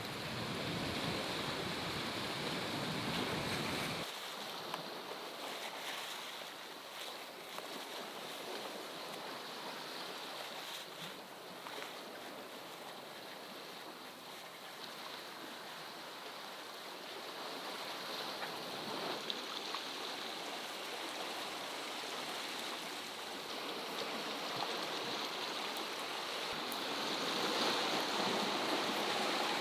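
Sea surf washing against a rocky shore, an even rushing noise that swells and eases, louder again near the end. Background music stops about four seconds in.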